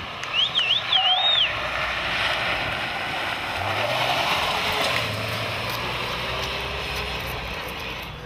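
Small hatchback's engine running hard through an autocross course, heard as a low steady hum under a broad rush of noise. A high warbling whistle sounds in the first second and a half.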